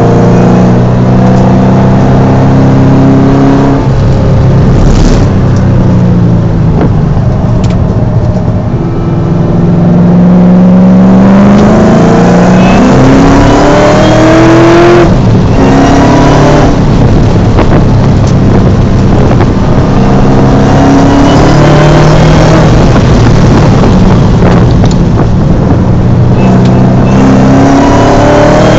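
Shelby GT500's supercharged V8 under hard acceleration on track, heard from inside the cabin: loud, its pitch climbing repeatedly and dropping back with each shift or lift for a corner, with steadier stretches between.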